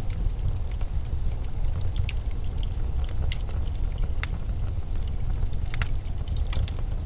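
Steady low rumble of blizzard wind, with sharp crackles and ticks scattered irregularly through it.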